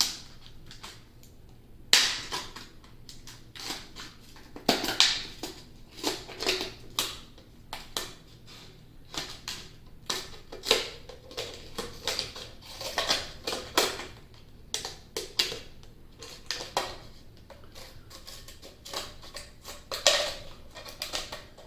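Scissors cutting through a thin plastic drink bottle: a long run of irregular crisp snips and plastic crackles, about one or two a second, with a few louder cuts.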